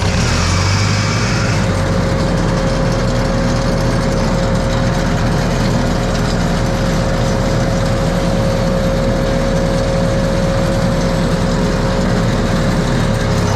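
A motor engine, just started, running steadily at a constant speed, with a steady tonal hum over a low rumble. There is a brief hiss in the first couple of seconds.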